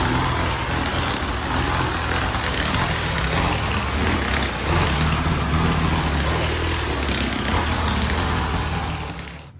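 Tile-and-grout cleaning equipment running: a tile spinner spraying and vacuuming on the floor, a steady loud hiss over a low machine hum. It cuts off suddenly near the end.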